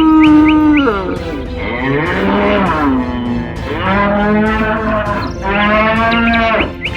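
Cattle mooing: four long drawn-out calls in a row, one ending about a second in and the others following with short gaps, some rising and then falling in pitch.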